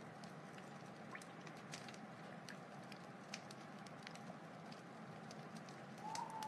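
Wood fire crackling: scattered sharp pops and snaps over a steady soft hiss, with a louder wavering whistle starting near the end.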